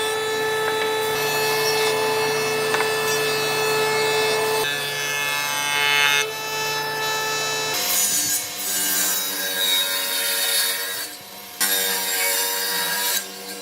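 Woodworking power tool cutting into wood: a motor's steady whine over the rasp of the cut, shifting in pitch about a third of the way through and again past halfway, with a short drop near the end.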